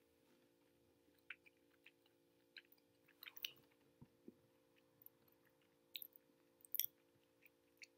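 Faint mouth sounds of chewing hard, solid dark chocolate (Ritter Sport 55% cacao): scattered soft clicks and smacks, a little louder a few seconds in and again near the end.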